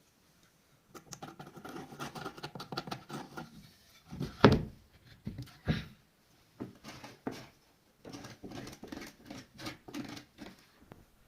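Rapid scratching and rubbing strokes of hand work on a wooden cricket bat, with two sharp knocks about four and a half and six seconds in.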